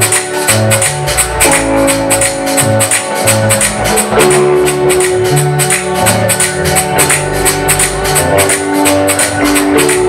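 Live gospel praise band playing an instrumental passage: sustained keyboard chords over a pulsing bass, with hand percussion keeping a steady beat of about four strikes a second.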